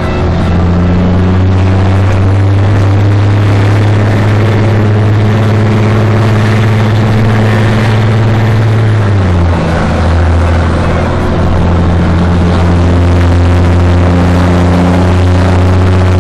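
International DT466 inline-six diesel running loud through a straight-pipe exhaust with no muffler. It holds a raised, steady speed, dips briefly about nine seconds in, then settles at a slightly lower steady speed.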